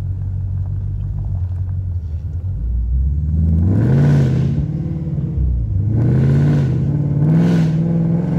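Supercharged 5.0 L Coyote V8 of a 2018 Mustang GT, heard from inside the cabin, running low and steady, then pulling harder from about three seconds in. The revs rise, dip and rise again twice before holding higher near the end.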